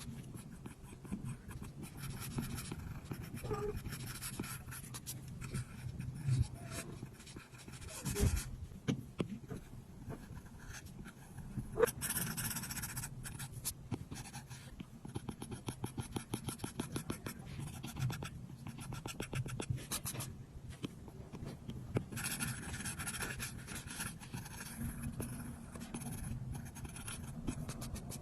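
Apple Pencil tip on an iPad's glass screen: a run of quick light taps mixed with short scratchy strokes, with a few longer scratchy passes in the middle and near the end, over a low steady hum.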